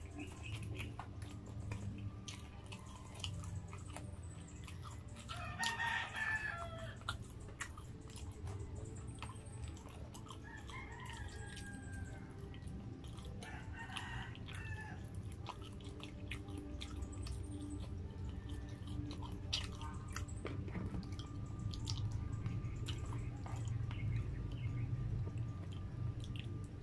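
Close-miked eating sounds of a fried lumpia spring roll being bitten and chewed, with small wet mouth clicks over a steady low hum. A rooster crows in the background about three times, around a quarter and a half of the way through.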